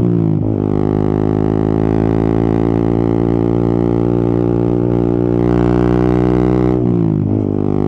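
Yamaha XSR 155's single-cylinder engine running under way, a steady loud drone that drops sharply in pitch about half a second in and again near the end, then holds level.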